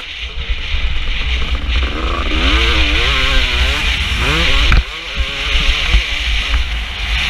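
KTM 250 SX two-stroke motocross engine revving up and down under changing throttle. The level drops suddenly about five seconds in as the throttle is chopped, then the engine runs on at a steadier pitch, over a constant low rumble.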